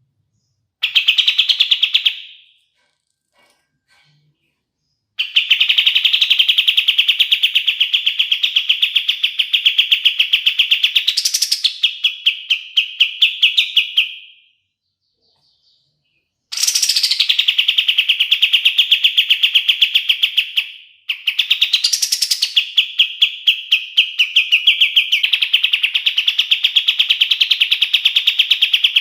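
Kapas tembak songbird singing long, rapid rolling trills on a fairly steady pitch, in four bouts with short pauses between them; two bouts carry a brief rising sweep.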